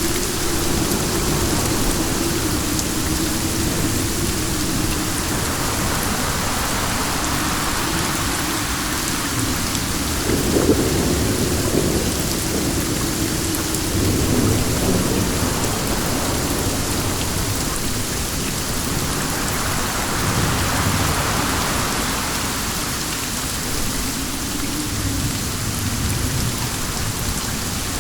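Steady rain with wind, with a low rumble of thunder swelling about ten seconds in and fading over several seconds.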